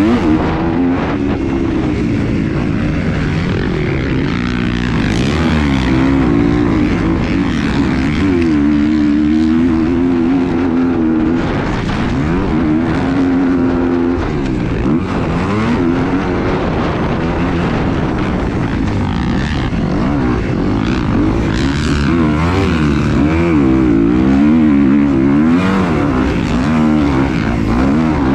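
An engine running with its pitch wavering up and down, under heavy low rumble from wind on the microphone.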